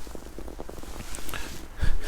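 Footsteps crunching in snow, a series of short irregular crunches with a heavier thud near the end, over a steady low rumble.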